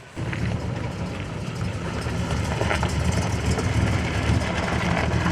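A car engine running with a deep, pulsing rumble that begins abruptly just after the start.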